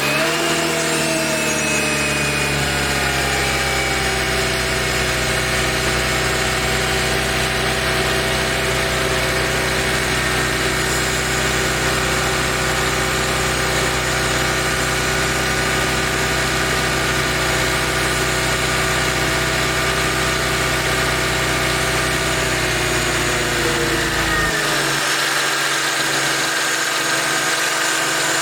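Mercedes SLK 32 AMG's supercharged V6 idling, its pitch easing down over the first few seconds and its sound shifting near the end as the deep rumble falls away. The owner is asking about a steady rattling 'dadum dadum' that appears once the engine is past about 40°C and quickens with revs.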